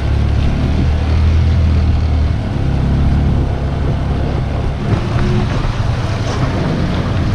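Motorcycle engine running steadily at low revs, heard from on board while riding, with a hiss of wind and road noise over it; it eases slightly about halfway through.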